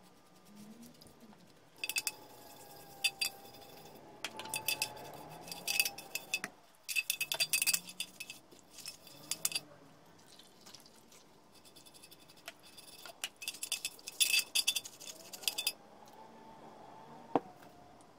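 Small metal parts clinking and rattling against each other with a bright ring, in two busy bursts and one lone click near the end.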